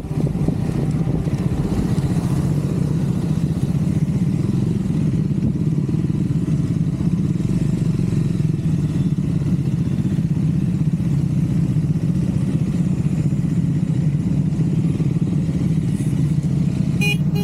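Triumph Scrambler 400 X's single-cylinder engine running steadily while riding at a constant speed. A brief horn sounds near the end.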